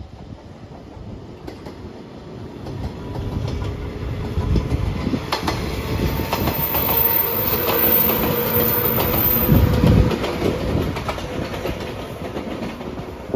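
JR 115-series electric multiple unit passing by, its wheels clacking over the rail joints. The rumble builds to its loudest about two-thirds of the way through, then fades as the train moves away.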